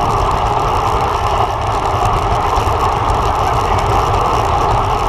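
Steady rush of wind and road noise on a bike-mounted camera's microphone while cycling, with a constant low rumble beneath it.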